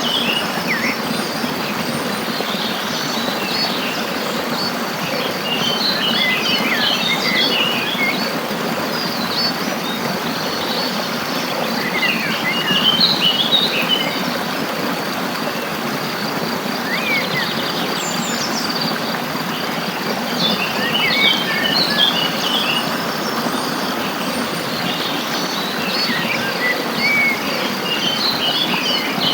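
Birds chirping and twittering in short clusters every several seconds over a steady rushing background noise, with a constant high insect buzz underneath.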